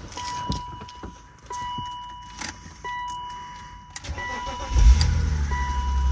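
A warning chime beeps over and over, about once every second and a bit. Near the end the BMW Z3's 3.0-litre straight-six cranks briefly, catches and settles into a steady idle.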